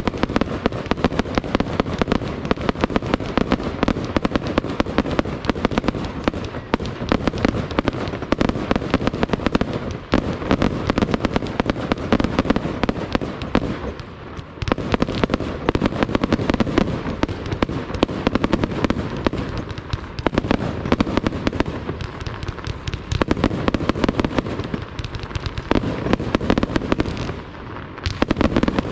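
Fireworks display: a dense, continuous barrage of rapid bangs and cracks, easing briefly about halfway through and again just before the end.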